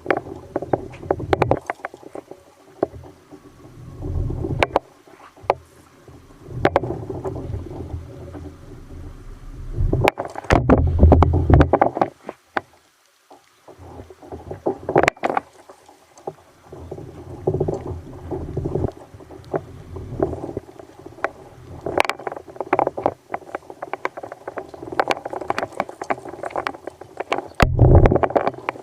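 Kayak on a rough sea: gusts of low wind rumble on the microphone and water sloshing, with many irregular knocks and clicks against the hull. The sound drops out almost completely for about a second around twelve seconds in.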